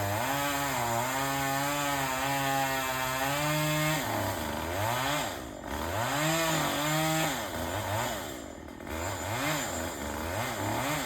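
A two-stroke chainsaw runs at a steady, fairly high speed, then is revved up and down repeatedly from about four seconds in.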